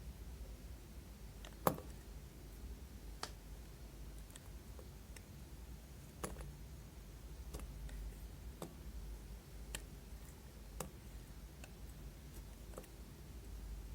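Scattered light clicks and taps, about eight at irregular intervals, over a low steady hum; the loudest comes about two seconds in.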